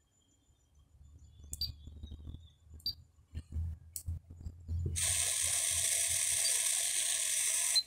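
FM radio static from a Pioneer AVH-P6380BT car head unit, played through its bench speakers while it is tuned to 87.50 MHz with no station: a steady hiss that starts about five seconds in and cuts off suddenly near the end. Before it come a few faint clicks and short high beeps.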